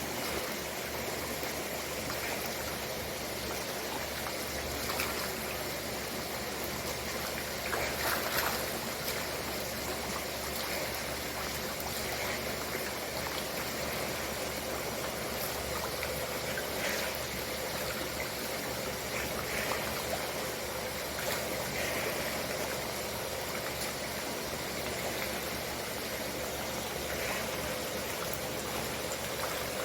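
Steady rush of water in a tilapia tank, with brief splashes now and then, the clearest about 8 seconds in.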